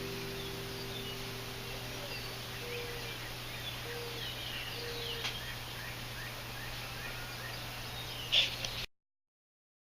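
Small birds chirping with short, high falling calls while the last chord of the guitar and strings fades away. A louder call comes near the end, then the sound cuts off abruptly.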